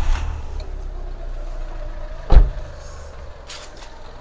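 Fiat 500 petrol engine running just after being started, settling towards idle. A single loud thump a little over two seconds in.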